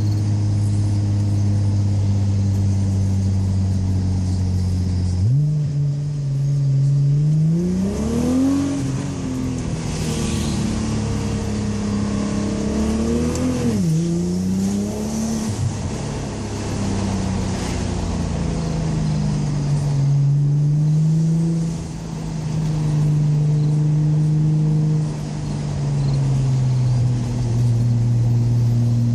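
Nissan GT-R R35's twin-turbo V6 through a Fujitsubo Super Ti titanium exhaust, heard from inside the cabin with the windows half down. It cruises steadily, then about five seconds in the revs jump and climb under acceleration, with sharp drops at gear changes twice, before settling back to a steadier, lower cruise.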